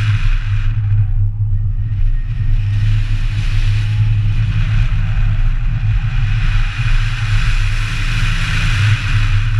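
A Subaru BRZ's flat-four engine, driven hard through an autocross course. It makes a steady low drone, and its upper sound drops away briefly about a second in before building again.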